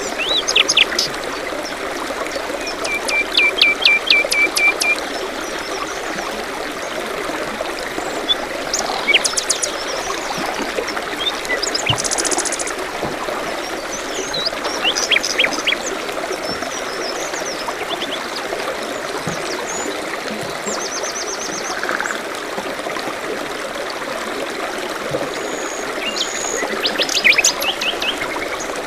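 A small stream trickling steadily, with several songbirds calling over it in short chirps and quick trills.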